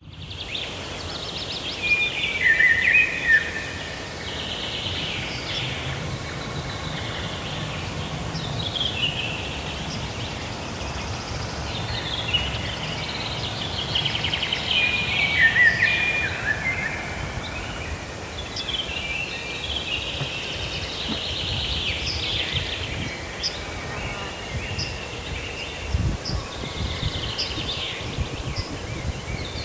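Birds singing and chirping outdoors, with repeated short phrases that often fall in pitch. The birdsong runs over a low, steady background rumble.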